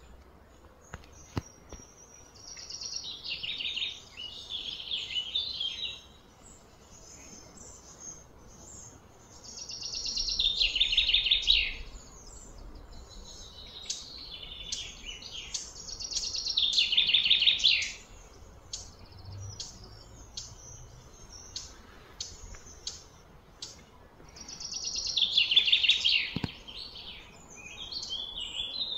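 A songbird singing loud, repeated song phrases, each about two seconds long with a falling trill, about five times, with short chirps between.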